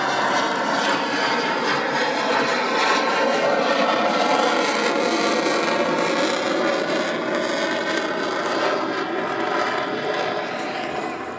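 USAF F-16C fighter jet's engine at high power in a flying display: a loud, steady jet roar that eases slightly near the end.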